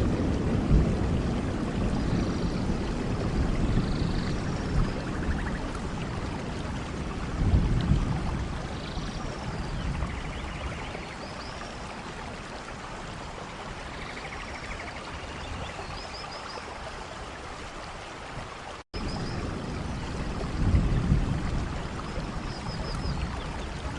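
Steady rainfall in a forest, with short bird chirps repeating now and then above it. A low rumble swells up a few times. The sound drops out for a split second about 19 seconds in.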